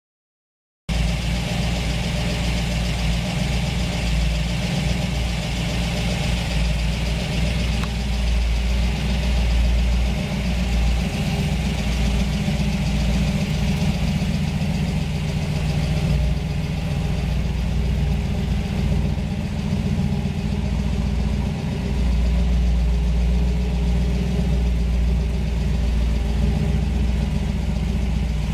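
A 1962 Corvette's fuel-injected 327 V8 idling steadily, cutting in about a second in.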